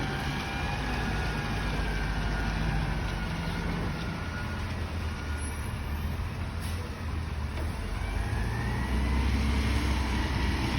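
Garbage truck's diesel engine running steadily with a low rumble, with a whine that rises in pitch near the end as the engine speeds up.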